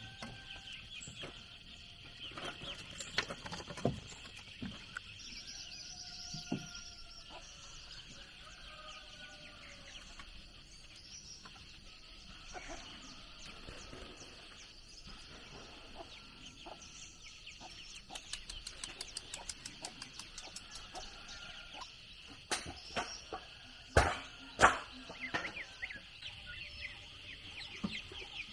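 Chickens clucking over a steady high drone of insects. A run of quick ticks comes in over the last third, then two loud sharp knocks near the end.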